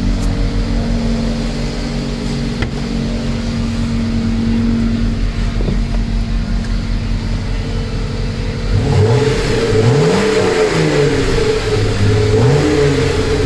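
Car engine idling steadily, then revved in short blips about three times in the last few seconds, the pitch rising and falling with each.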